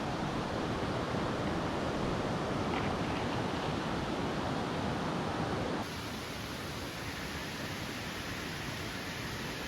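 Steady rushing outdoor noise with no distinct events, slightly quieter and thinner from about six seconds in.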